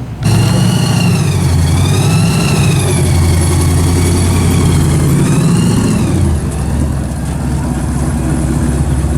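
A vehicle engine running loudly and steadily. A high tone over it swoops down and back up twice.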